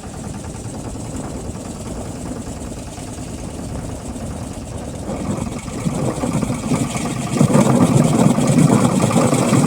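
Motorboat engine running steadily, growing louder about halfway through and loudest near the end.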